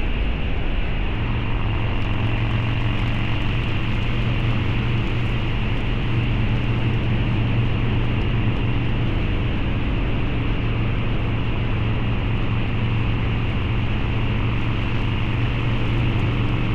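Harley-Davidson Low Rider's 129 cubic inch V-twin, with a Cycle-Rama CR485 cam, running through a Two Brothers Racing exhaust at a steady cruise, its pitch holding even with no revving.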